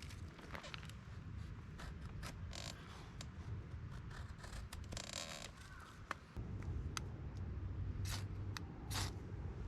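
Scattered small clicks and taps with a short rasp about five seconds in: objects being handled close to the microphone. A low background rumble grows louder about six and a half seconds in.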